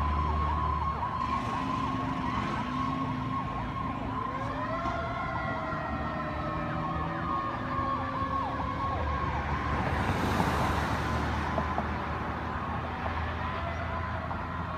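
Sirens of a fire rescue truck on an emergency response: a steady wavering siren tone throughout, joined about four seconds in by a siren that winds up and then slowly winds down. A loud burst of noise cuts in at about ten seconds.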